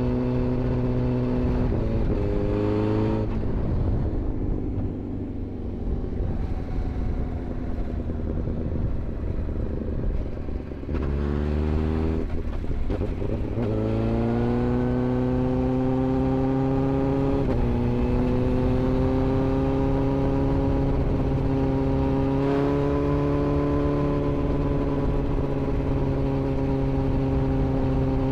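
Inline-four sportbike engine accelerating through the gears: a quick run of short rising revs with upshifts, a few seconds off the throttle at lower revs, then a long hard pull with an upshift before settling to a steady cruise.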